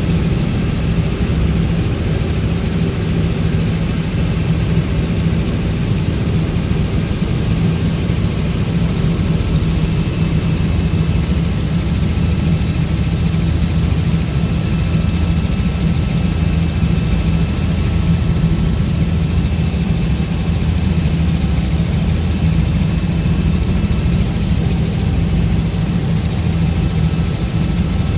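Robinson R66 helicopter, its Rolls-Royce RR300 turbine and rotors running with a steady, unbroken drone that is deepest in the low end.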